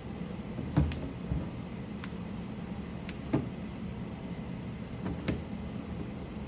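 A handful of sharp, irregular clicks and light knocks from mechanical keyboard parts being handled as switches and keycaps are changed, over a steady low hum.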